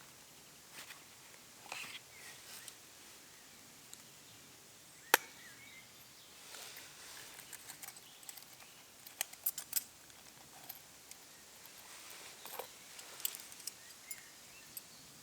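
Scattered light clicks and knocks, with one sharp knock about five seconds in and quick clusters of clicks later on, over a faint outdoor background.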